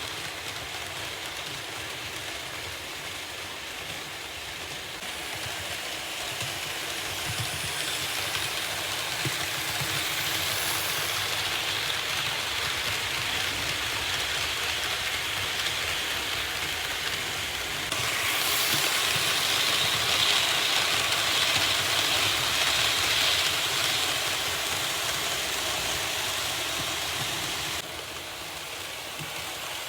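Märklin H0 model train running along the track: a steady rattling hum of wheels and motor that grows gradually louder, jumps louder about two thirds of the way through, then drops back suddenly near the end.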